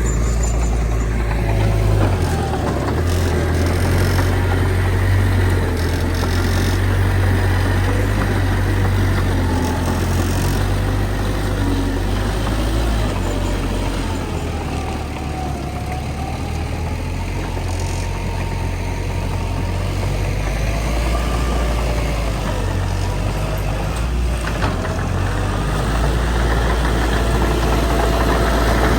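Heavy diesel earthmoving machinery running steadily with a deep low rumble, easing a little around the middle and building again toward the end.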